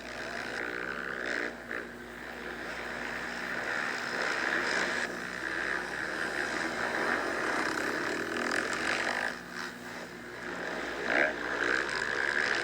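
Motocross bikes, 450cc four-strokes, running and revving out on the track, heard as a steady, fairly distant engine drone that swells and fades as riders pass.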